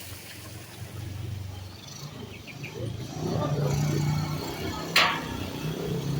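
A motor vehicle engine running, its hum stepping up in pitch about three seconds in, with one sharp click about five seconds in.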